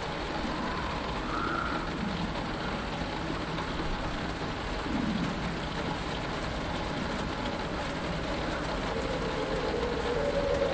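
Steady rain falling on a cockpit canopy over a low, even rumble, with a few faint short calls from swamp creatures, one of them falling in pitch about halfway through.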